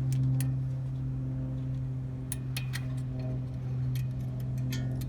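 A steady low hum with scattered light metallic clicks and clinks of hand-tool work on the axle nut and hub.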